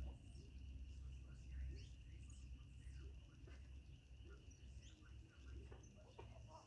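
Faint scattered bird chirps and calls over a steady high hum and a low rumble.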